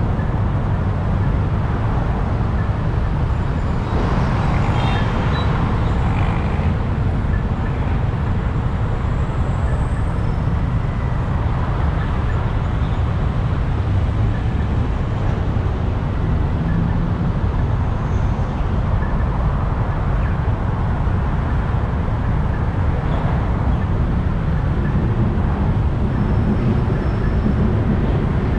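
Motorbike riding in city traffic: a steady low engine and road rumble. A brief higher tone cuts through about five seconds in.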